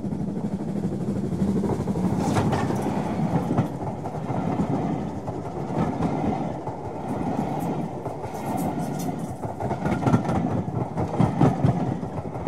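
A train of railway carriages rolling past, a steady rumble with irregular clicks and knocks from the wheels passing over the rail joints.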